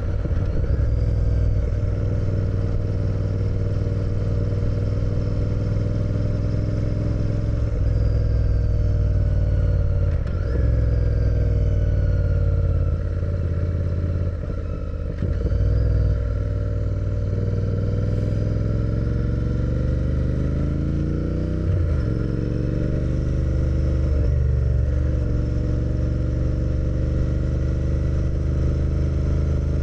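Motorcycle engine running on the move, the revs climbing and then dropping back at several gear changes through the stretch.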